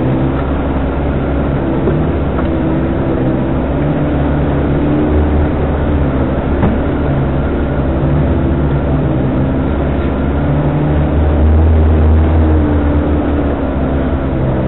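Off-road 4x4's engine running steadily at low revs while crawling over a rocky trail, heard from just above the engine bay, with the revs rising a little twice. A few faint knocks from the vehicle jolting over the rocks.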